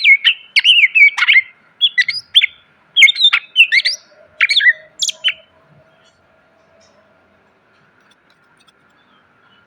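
Cucak ijo (green leafbird) singing a rapid run of loud, varied sliding whistles and chirps, which stops about halfway through; a faint steady high hum carries on underneath.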